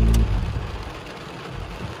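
Car engine running, then shut off about a quarter second in, leaving the steady hiss of rain on the car.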